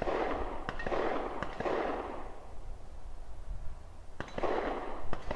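A few sharp clicks and faint pops over patches of rushing wind noise.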